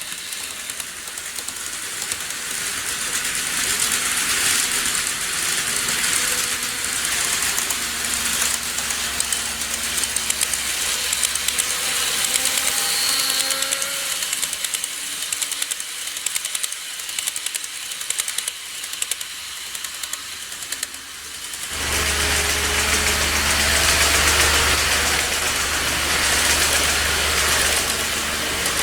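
KATO N-gauge model trains running on layout track: a steady rattle and whir of wheels and motor. About 22 s in the sound changes abruptly and a low hum joins it.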